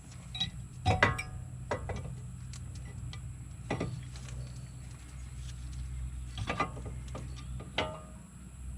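Scattered metallic clicks and clinks, about nine spread unevenly, a few ringing briefly, as brake hardware and hand tools are handled during reassembly. A steady low hum runs underneath.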